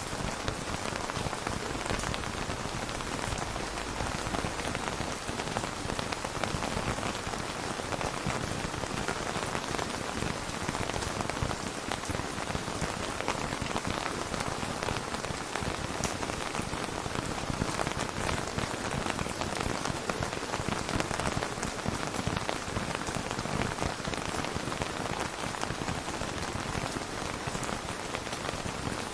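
Steady rain falling, an even hiss with many small drop ticks, with no thunder or other events.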